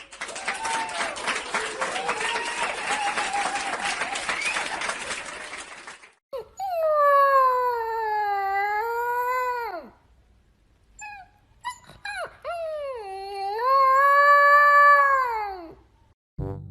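A puppy howling: two long howls, each dipping in pitch and then rising before falling away. They follow several seconds of loud hiss with a faint whine in it.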